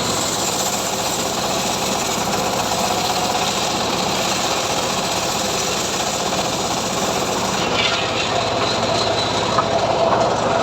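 Homemade sawmill running steadily, with a continuous dense mechanical noise.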